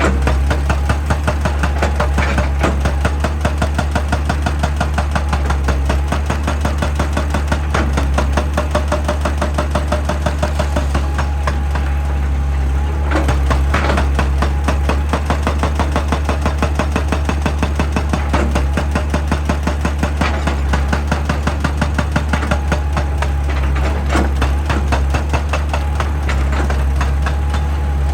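Excavator-mounted hydraulic rock breaker hammering rock in rapid, even blows, over the steady low hum of the excavator's diesel engine.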